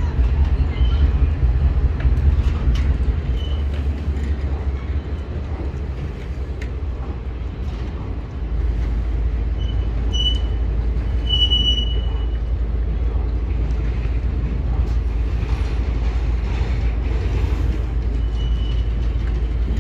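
Indian Railways sleeper-class passenger coaches rolling past: a steady low rumble of wheels on rail with scattered clicks, growing heavier about eight seconds in, and a few short high squeals near the middle.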